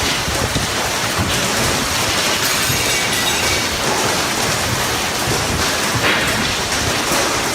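Heavy rain falling steadily in a storm, a dense, even rush of noise.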